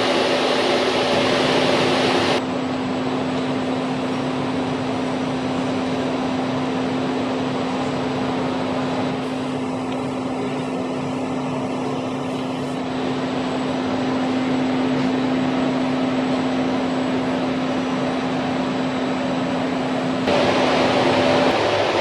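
Train at close range: a steady rushing noise with a steady hum under it. The noise changes abruptly at about two and a half seconds and again near the end.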